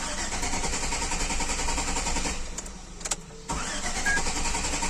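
2006 GMC Yukon's V8 engine being cranked on the starter without catching, the sign of its crank-but-no-start fault. The cranking eases off for about a second midway and then resumes.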